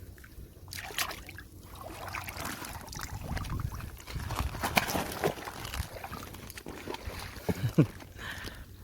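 Water sloshing and splashing, with scattered knocks and rustles of handling.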